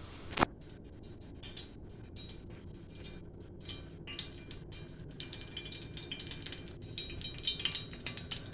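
Kitchen utensil sounds: a sharp click about half a second in, then a run of light clinks and scrapes of utensils and dishes.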